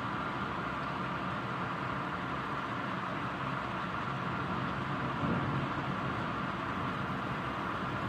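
Steady rain falling hard: a constant hiss that swells slightly about five seconds in.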